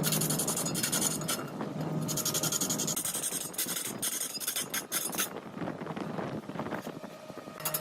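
Large woodworking lathe turning mahogany, with the cutting tool rasping against the spinning wood in spells of about a second that start and stop several times. A low machine hum sits under it and weakens in the second half.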